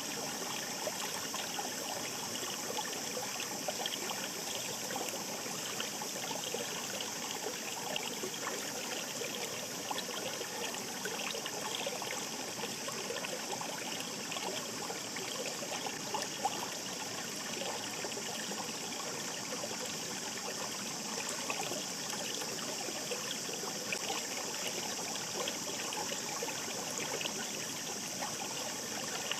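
Shallow mountain stream flowing with a steady, unbroken murmur and fine splashing.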